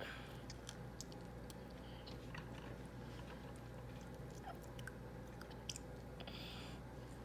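Small child chewing and sucking on an orange wedge: faint, scattered wet clicks and smacks over a low steady hum.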